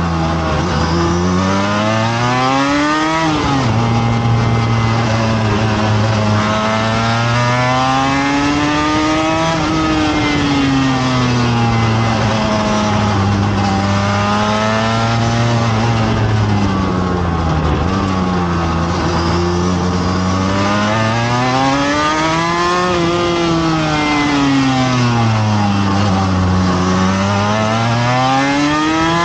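Motorcycle engine at speed on a race track, heard from on board. The revs climb and fall again and again, with a sudden drop about three seconds in.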